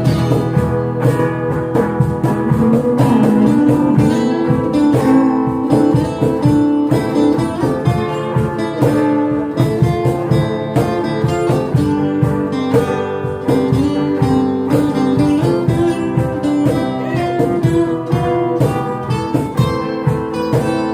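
Acoustic guitar playing a song's instrumental passage, plucked and strummed.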